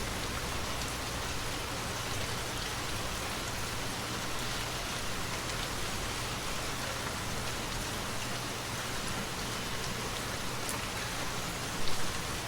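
Steady rain: an even hiss with no change in level.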